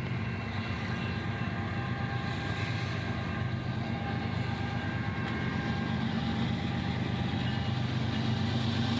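Diesel locomotive engine running steadily, growing slowly louder.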